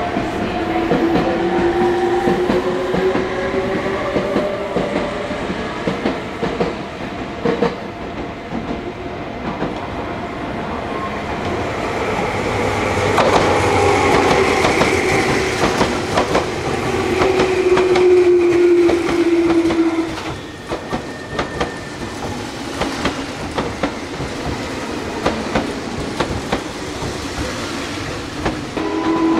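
Meitetsu electric train running through the station, its wheels clacking over rail joints, with a motor whine that falls slowly in pitch.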